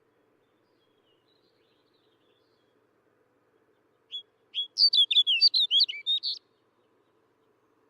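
Snow bunting singing: one short, quick warbled phrase of rising and falling whistled notes, about two seconds long, starting about four seconds in.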